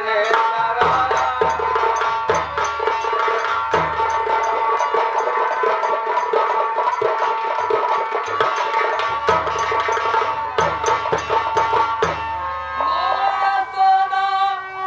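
Nautanki stage music: a sustained melody over fast, regular hand-drum strokes and deep drum beats. The drums stop near the end, leaving the wavering melody.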